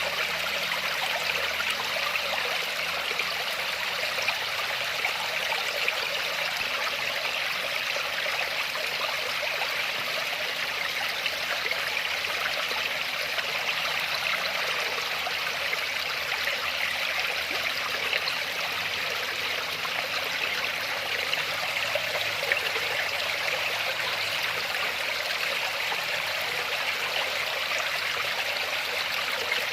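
Waterfall: water falling and rushing in a steady, even wash of noise, with no breaks or changes.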